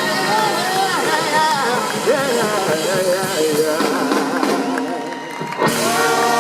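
Live blues-rock band playing, with a lead line bending and sliding in pitch over the band. About five and a half seconds in it drops back briefly, then the full band hits a loud sustained chord.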